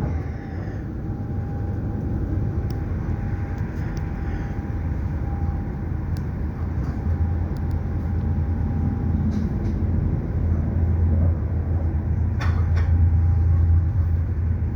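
Passenger train running along the track: a steady low rumble that grows heavier about halfway through, with a faint steady whine and a few light clicks near the end.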